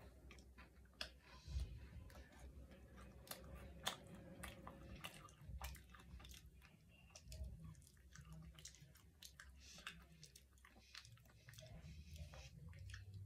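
A person chewing a bite of a Kit Kat Birthday Cake wafer bar: faint, irregular crisp crunches of the wafer, with a couple of louder crunches in the first four seconds.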